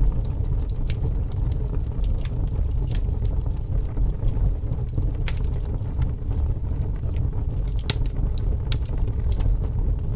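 Fire burning with a steady low rumble of flames and irregular sharp crackles and pops, the loudest about eight seconds in.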